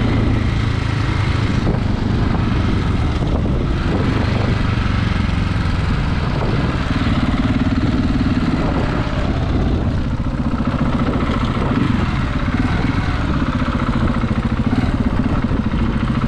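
KTM 690's single-cylinder engine running steadily while the motorcycle is ridden, with wind and road noise on the microphone.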